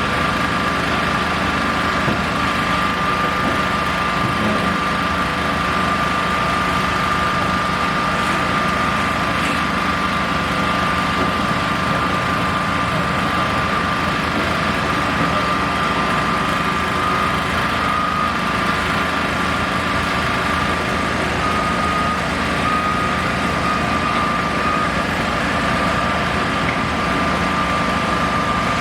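Engine of construction machinery running steadily at a constant speed, with a thin steady high whine held over the engine noise.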